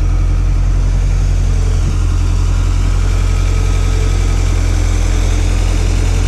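Toyota pickup's stage 2 rebuilt 22RE four-cylinder engine idling steadily, exhaust running through an LC Engineering header.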